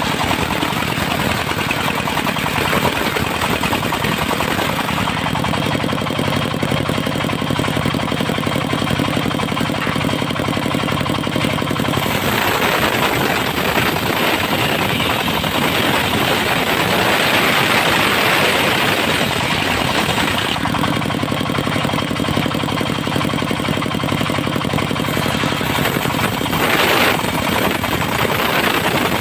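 Engine-driven circular sawmill running: the engine sounds steady, and from about twelve seconds in, for roughly eight seconds, the saw blade cuts through mahogany with a loud hiss that covers the engine note.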